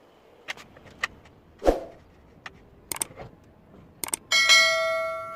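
Scattered light clicks and knocks of metal parts being handled, then about four seconds in a metal piece is struck and rings with a clear bell-like tone that fades away over about a second and a half.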